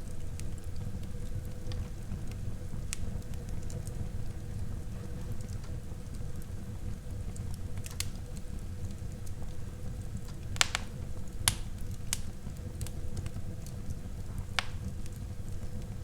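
Wood fire burning in a fireplace: a steady low rumble of the flames with scattered sharp crackles and pops, a few louder pops clustered a little past the middle.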